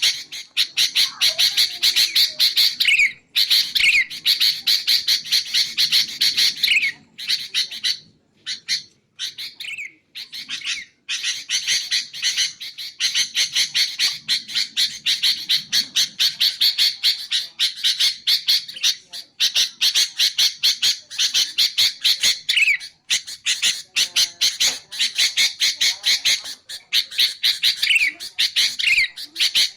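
Sooty-headed bulbul (kutilang) giving a fast, harsh chattering call, broken by occasional short downward-sliding whistled notes and two brief pauses about a quarter and a third of the way through.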